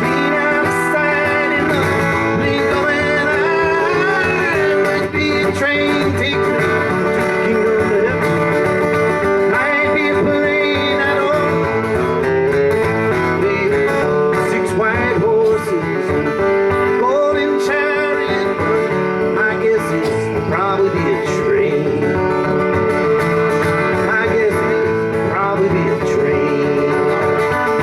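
Live acoustic country band playing an instrumental break, with acoustic guitar prominent.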